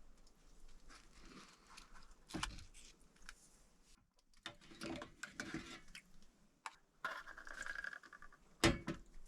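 Small hard objects being handled close by: light clicks, rattling and rustling, with one sharp knock near the end.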